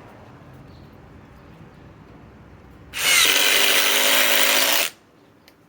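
Cordless impact driver hammering a 4-inch GRK screw into wood: one loud run of rapid impacts lasting about two seconds, starting about three seconds in and stopping abruptly as the screw seats.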